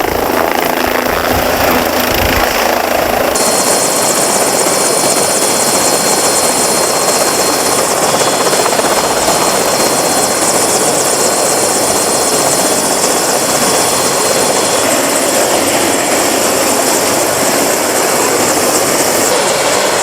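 Helicopter running close by, a steady loud rotor and engine noise; a high, thin whine joins it a few seconds in and drops away near the end.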